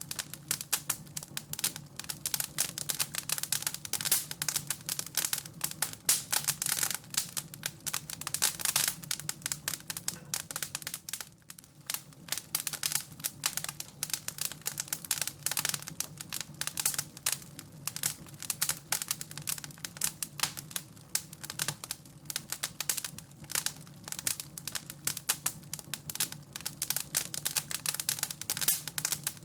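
Wood fire crackling in a fireplace: a dense, continuous run of irregular snaps and pops, with a brief lull about eleven seconds in.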